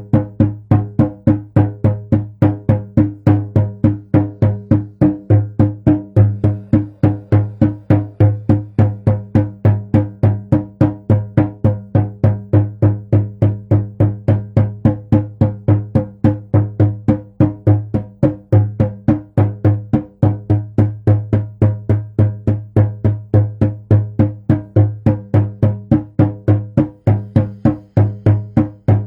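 A hand drum beaten in a steady, even rhythm of about four beats a second, each stroke ringing with a deep low pitch.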